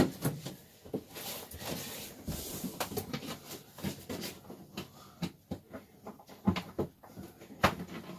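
Scattered knocks, clicks and scuffs from a Thetford RV toilet being shifted and lined up over its floor bolts in a tight space, with a few louder knocks in the second half.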